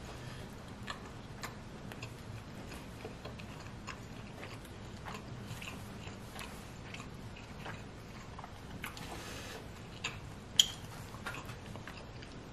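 A person chewing a large mouthful of pepperoni pizza: soft, irregular mouth clicks and smacks, with a sharper click about ten and a half seconds in.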